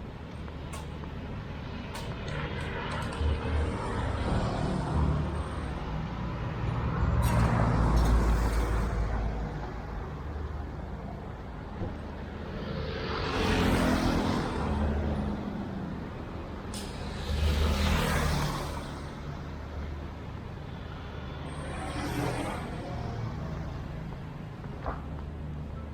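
Street traffic passing close by: a steady low engine rumble, with vehicles swelling up and fading away one after another, about four times.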